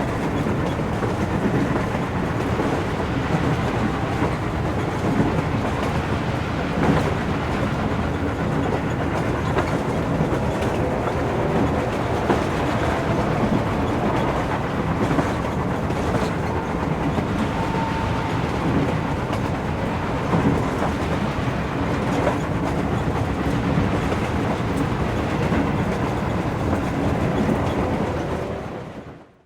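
Train running on rails: a steady rumble with occasional faint clicks, fading out near the end.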